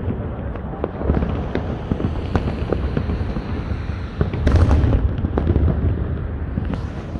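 Fireworks display going off: a continuous rumble of bursts dotted with many sharp cracks, with a louder cluster of bangs about four and a half seconds in.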